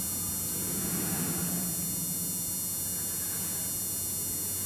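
Steady low hum over a constant background hiss, swelling slightly about a second in.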